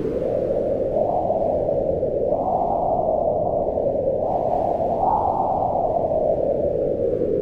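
Wind blowing steadily as a low, rushing noise, its pitch swelling upward and sinking back as gusts rise and fall, with swells about a second, two seconds and five seconds in.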